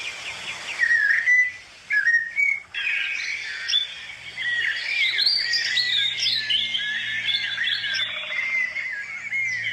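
Several small birds chirping and calling over one another in quick, overlapping notes that get busier about halfway through.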